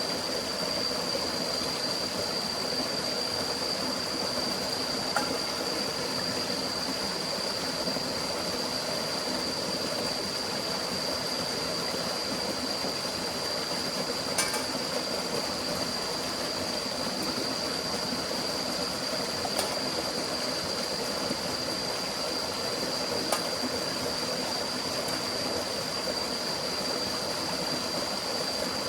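Steady rushing of a forest stream, with a constant thin high-pitched tone over it and a few faint ticks.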